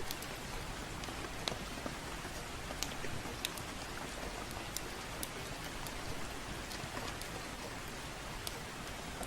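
Steady gentle rain, a continuous even hiss, with irregular sharp crackles and pops from a wood fire in a fireplace.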